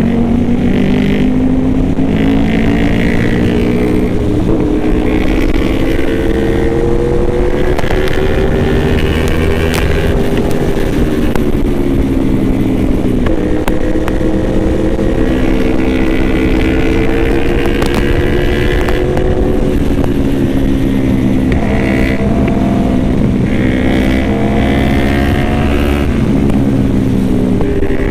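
Yamaha R1M sport motorcycle's inline-four engine running at steady riding revs through a run of curves, its pitch rising and easing off gently several times, with wind rushing over the microphone.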